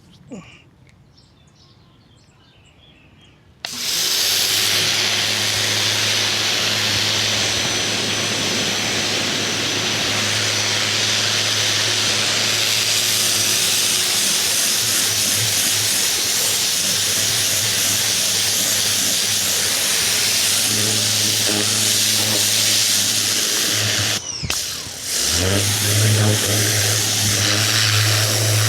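Ryobi 2000 PSI electric pressure washer kicking on about four seconds in as the trigger is squeezed: a steady motor hum under the loud hiss of the water jet spraying the fence. Near the end the spray cuts out for about a second, then the motor and jet start again.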